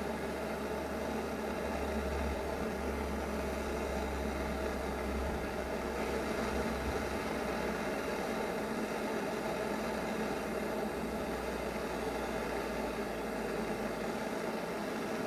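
Steady hum and hiss of a heating tool running while lead solder melts onto a throttle cable end, with a low drone that drops off near the end.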